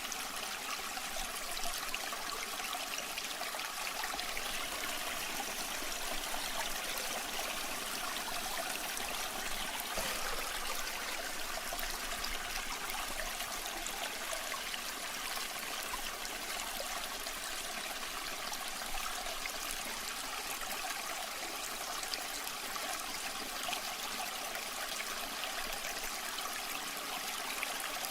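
Waterfall water splashing and rushing in a steady, even wash, with more hiss than rumble.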